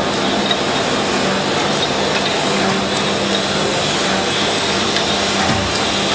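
Snow double column surface grinder running, giving a loud, steady mechanical noise with a constant hum underneath, and a brief low thud near the end.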